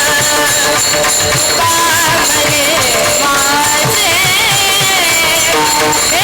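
Devotional kirtan music: a melody that bends and slides like a singing voice, over a steady run of drum strokes and ringing, jingling percussion.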